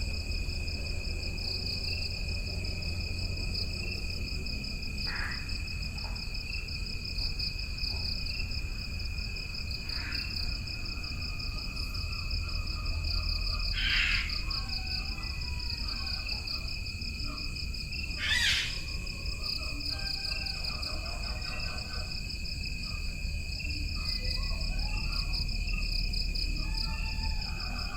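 Jungle ambience: a steady, high, pulsing trill of crickets or similar insects throughout, with bird calls over it. Sharp single calls come about 5, 10, 14 and 18 seconds in, and twittering runs from about halfway on, over a low rumble.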